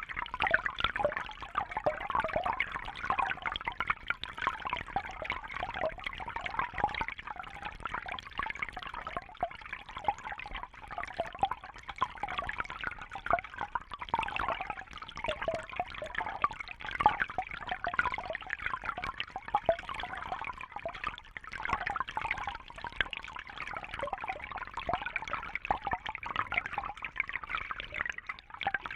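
Water trickling and splashing steadily, a continuous bubbly rush that swells and eases a little.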